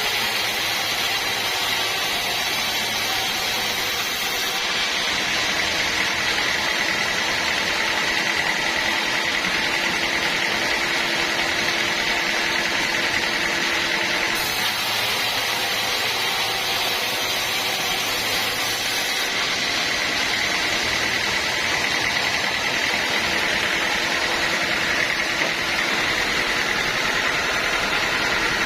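Sawmill machinery running steadily: a constant mechanical din with a steady high whine over it.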